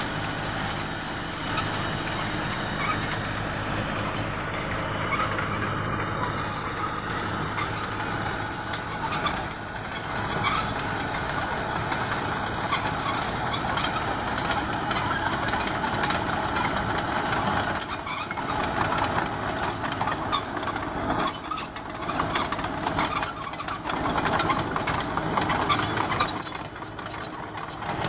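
Bulldozer's diesel engine running steadily while it pushes stone. From about two-thirds of the way through, many sharp clicks and knocks sound over the engine.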